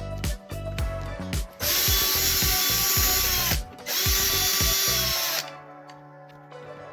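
Cordless power drill running in two bursts, about two seconds then a second and a half, with a short pause between, as screws are driven out of the air conditioner's panel.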